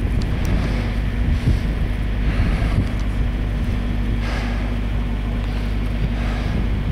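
Vehicle engine idling steadily, a low hum, with wind noise on the microphone.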